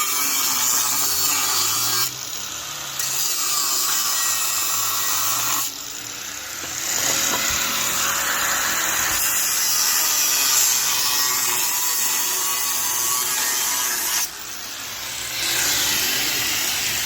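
A power tool running in long steady stretches of high, hissing noise, easing off three times, as it works on an exhaust part.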